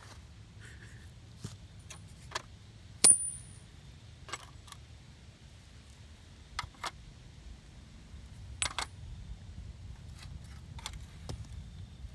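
Metal sockets being dropped one by one into an RC truck's load bed: a string of sharp metallic clinks a second or two apart, the loudest about three seconds in with a brief ringing tail.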